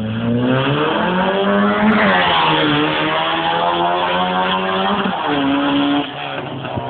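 Dragster engine accelerating hard past. It rises in pitch, drops sharply about two seconds in as the car goes by, then keeps revving as it pulls away and gets quieter near the end.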